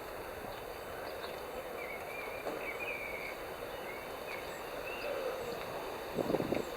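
Outdoor ambience with a few faint bird chirps, then a short cluster of knocks and rustles near the end.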